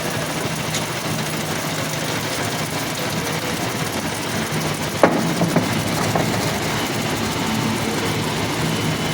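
Steady running machinery in a forging workshop with a constant low hum. About five seconds in comes one sharp knock, followed by a few lighter knocks.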